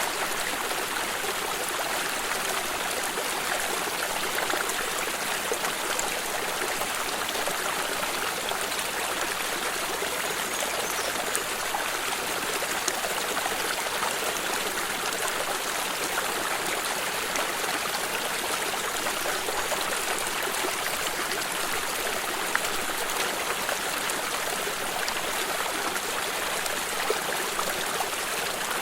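Water in a stream flowing and trickling steadily, with small splashes and ticks over an even rush.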